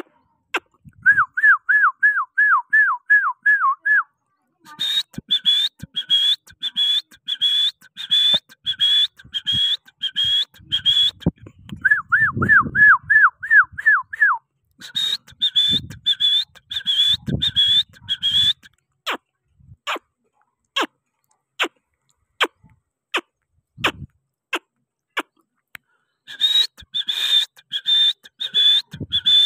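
Bursts of short, high-pitched whistled chirps repeated about four times a second, each burst lasting a few seconds, with a lower-pitched run of falling chirps twice and single sharp clicks spaced out in the stretch after the middle.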